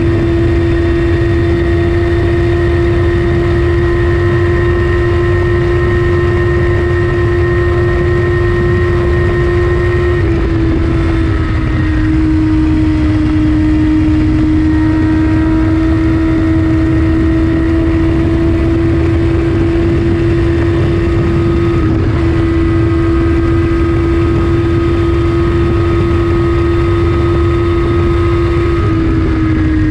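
2014 Kawasaki ZX14R's inline-four through an Akrapovic Racing Line exhaust, held at high, steady revs at speed. The note dips slightly in pitch about a third of the way in and again near the end, over a rushing wind noise.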